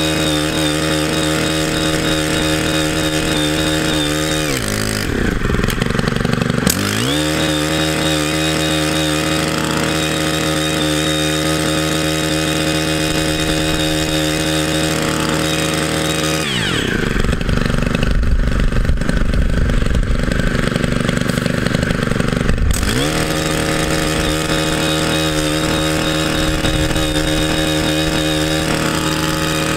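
Engine driving a steel post-hole auger runs at a steady high speed. Its pitch drops about four seconds in and slides back up shortly after. Around sixteen seconds in it drops again to a lower, rumbling note for several seconds, then revs back up.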